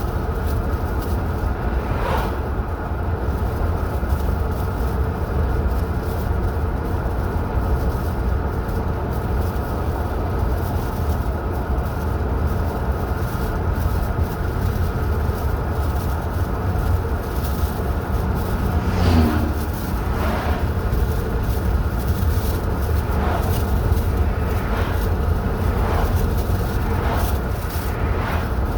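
Car driving at a steady speed, a constant low rumble of road and engine noise, with a few short knocks or rattles in the second half.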